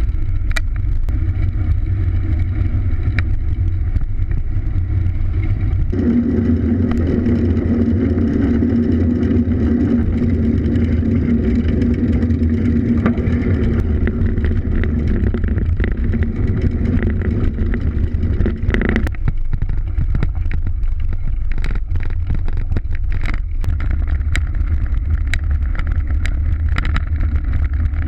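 Wind and motion noise on a mountain bike's GoPro camera during riding: a steady low rumble with frequent rattles and knocks from the bike over rough ground. A steadier drone joins from about six seconds in and stops abruptly near nineteen seconds.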